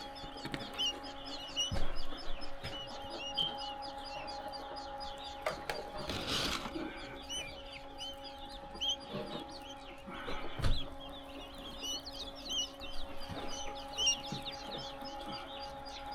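Many newly hatched pharaoh quail chicks peeping, a constant stream of rapid high chirps. A steady low hum runs behind them, dropping out for several seconds in the middle, and a couple of brief knocks and rustles come from handling.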